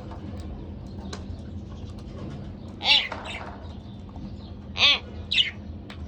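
Budgerigars giving short chirping calls: a pair of calls about three seconds in and another pair about five seconds in, over faint scattered clicks.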